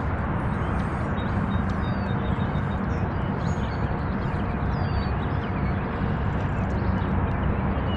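Steady low outdoor rumble on the water, with a few faint high bird chirps.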